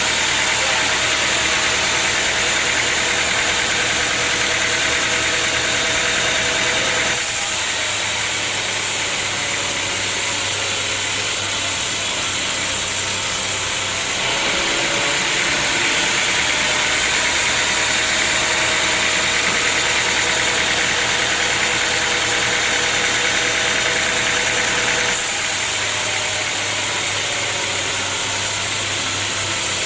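Sawmill machinery running steadily: a motor's hum under strong hiss. The mix changes abruptly three times, about seven, fourteen and twenty-five seconds in.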